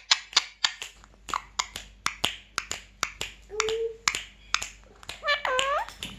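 A rapid run of sharp lip-smack kissing clicks, about four or five a second, the kind made to coax a pet parrot. A short steady tone comes about halfway through, and a brief call that bends in pitch comes near the end.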